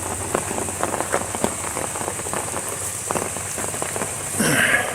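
Steady rain falling, with many separate drops tapping close by. There is a brief louder sound shortly before the end.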